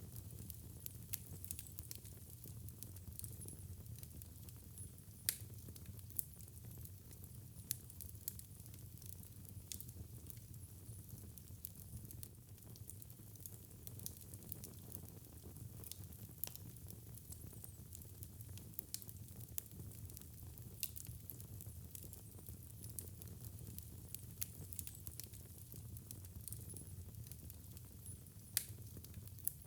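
Fire burning in a fireplace: a steady low rumble with scattered sharp crackles and pops, the loudest about five seconds in and again near the end.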